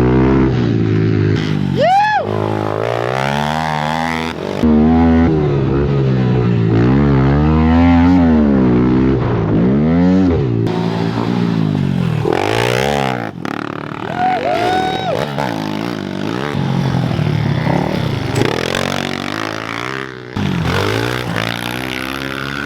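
Several small single-cylinder four-stroke pit bikes racing, their engines revving up and dropping again and again as the riders twist the throttle and shift through the turns.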